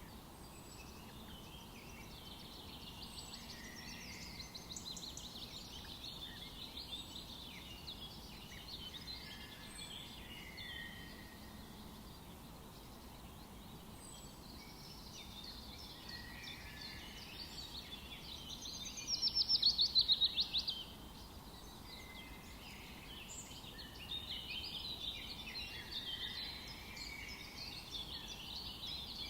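Several songbirds singing and calling in a forest over a faint steady background hiss. About eighteen seconds in, one bird gives a loud, rapid trill lasting about two seconds.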